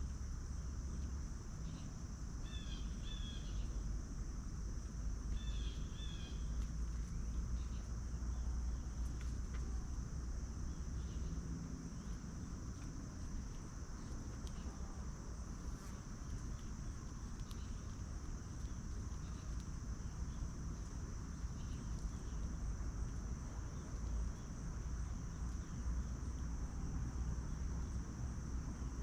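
Insects, crickets, trilling in one steady high-pitched drone, over a low rumble of wind on the microphone. A few short chirps come in three little groups in the first seven seconds.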